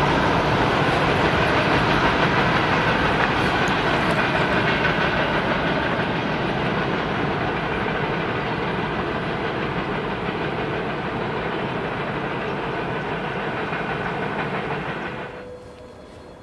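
Train running past on the rails: a steady rumble and rail noise, with some clickety-clack, that eases slightly and then drops away sharply about fifteen seconds in.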